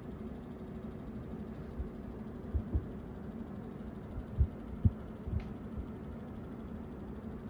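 Daikin air conditioner running with a steady low hum, broken by about half a dozen irregular dull taps in the middle: the abnormal tapping noise that began about a week after installation.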